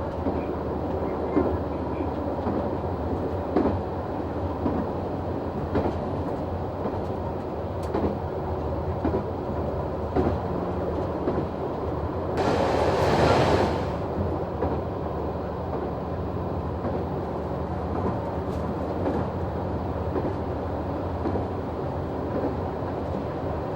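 Noto Railway NT100 diesel railcar running along the line: a steady engine drone under the rhythmic clack of wheels over rail joints. About halfway through, a louder rush of noise lasts a second or so.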